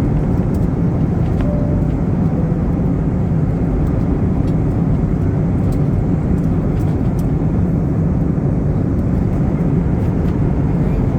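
Steady in-flight noise inside an Airbus A321 at cruise: an even, low rumble of engines and airflow.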